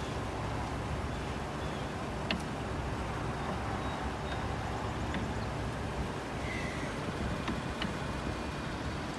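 A vehicle engine idling steadily, with a few light clicks and knocks over it.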